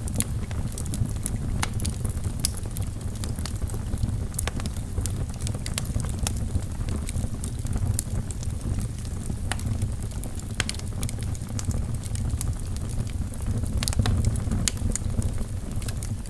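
Wood fire burning in a fireplace: a steady low rumble of the flames with frequent irregular sharp crackles and pops of the burning logs.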